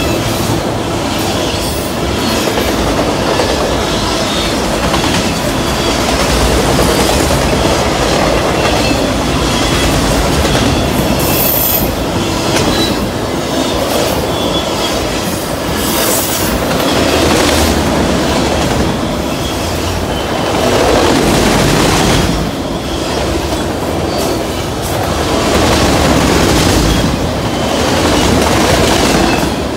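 A long string of autorack freight cars rolling past close by at speed: a steady rumble of steel wheels on rail, with continual clickety-clack over rail joints and a couple of brief high wheel squeals.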